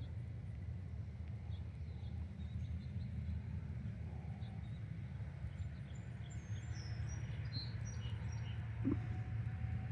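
Small birds chirping faintly now and then, several in quick succession a little past the middle, over a steady low rumble. A single knock near the end.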